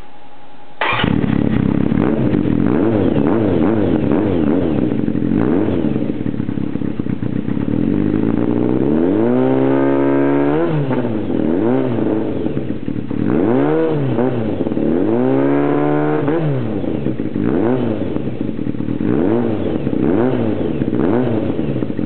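Kawasaki Zephyr 400 air-cooled inline-four running through a 4-2-1 'ende-kan' exhaust with its baffle in. It comes in suddenly about a second in and idles. About eight seconds in comes a long rev that rises and falls, then two more revs, then short throttle blips about once a second near the end.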